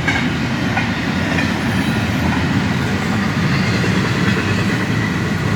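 Union Pacific freight train's cars rolling past, a steady rumble of wheels on the rails with faint wheel squeal.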